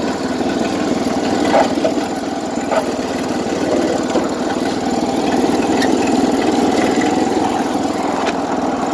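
Small tractor engine running steadily, with a few light clanks along the way; the owner says it is not running well, a little rich.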